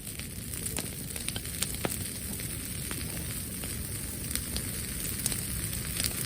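Brushwood bonfire crackling, with irregular sharp pops over a steady low rushing noise.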